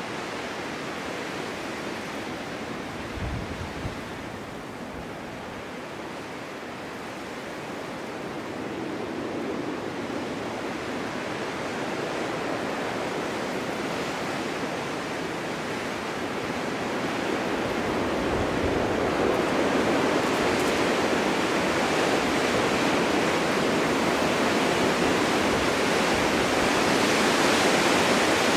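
Snowstorm wind blowing as a steady rushing noise that swells stronger in gusts through the second half.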